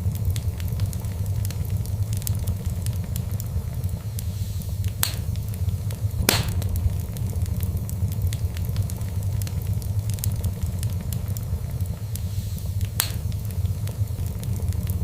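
Fireplace fire burning: a steady low rumble of flames with frequent small crackles and a few louder pops, the loudest about six seconds in.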